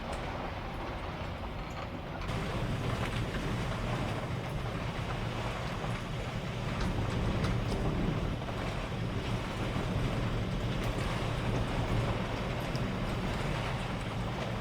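Typhoon wind and heavy rain: a steady rushing noise with scattered ticks of raindrops, growing louder about two seconds in.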